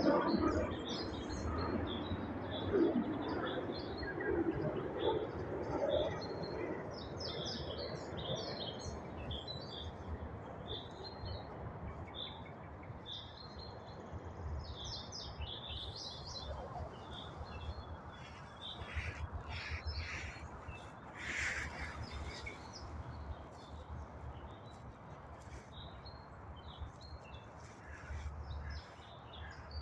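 Common starling singing: a busy run of short chirps, clicks and whistles repeated throughout, with a burst of louder, harsher calls about two-thirds of the way through. Some low noise sits under the song in the first few seconds.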